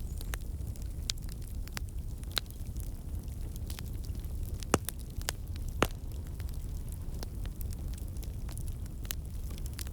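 Fire crackling in a fireplace: a steady low rumble of the flames with scattered sharp pops and snaps, the two loudest a second apart near the middle.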